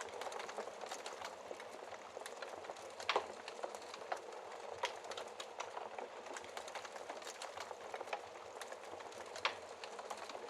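Wood fire crackling in a fireplace: a steady hiss with irregular sharp pops and snaps, the loudest about three seconds in and another near the end.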